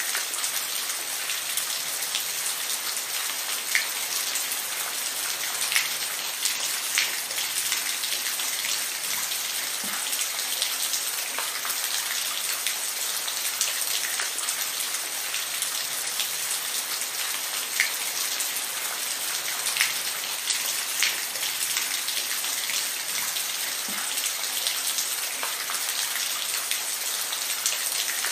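Steady rain falling, a dense even hiss with scattered individual drops ticking sharply against a surface.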